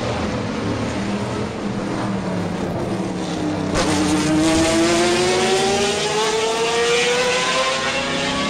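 Car engine accelerating with a loud, steady running noise; from about four seconds in, the engine note climbs steadily in pitch as it revs up.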